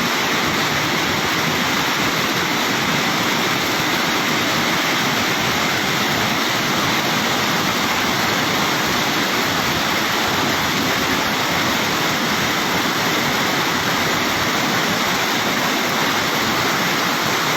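Fast-flowing floodwater rushing in a steady, unbroken noise.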